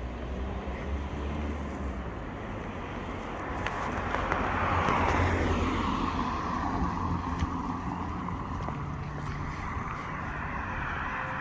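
Road traffic: a vehicle passes close, swelling to its loudest about five seconds in and then fading, over a steady hum of engines.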